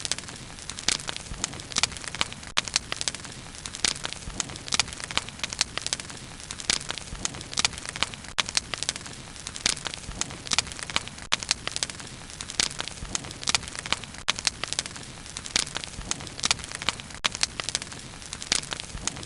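Wood fire burning steadily, with frequent irregular sharp pops and crackles over a low steady rumble of the flames.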